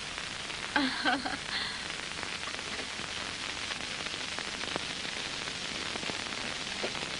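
Steady hiss of an old optical film soundtrack, with faint crackle and a short spoken word or two about a second in.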